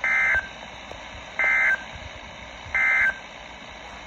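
Three short warbling data bursts about a second apart: the EAS/SAME end-of-message code sent by NOAA Weather Radio to close the warning broadcast. There is a steady radio hiss underneath.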